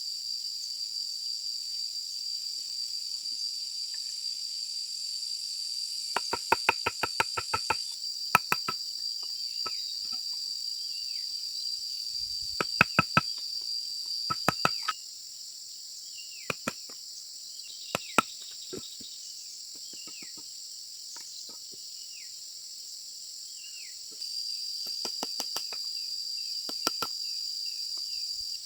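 A steady, high insect drone that breaks off midway and starts again near the end. Over it come runs of quick, sharp knocks with a short hollow ring, as when bamboo is struck while being worked, followed by scattered single knocks.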